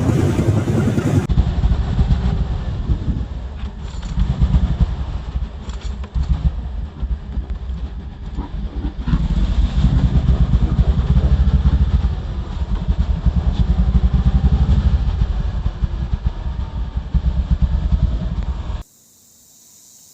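A vehicle running, heard as a loud, uneven low rumble that cuts off suddenly near the end.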